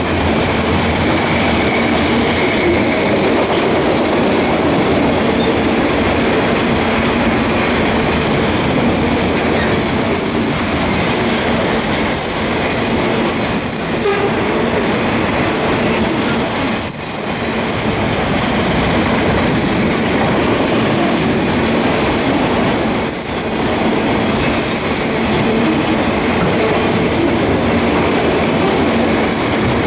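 Loaded autorack freight cars rolling past at close range: steady steel-wheel and rail noise with a faint clacking over the joints and occasional high-pitched wheel squeal. The sound dips briefly twice, about 17 and 23 seconds in.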